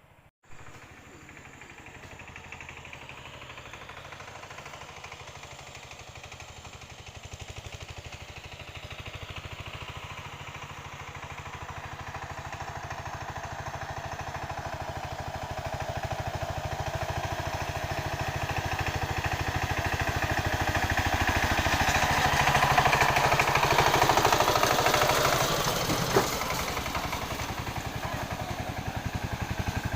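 A small engine running steadily, growing gradually louder over about twenty seconds and then easing off, with a single sharp knock shortly after the loudest point.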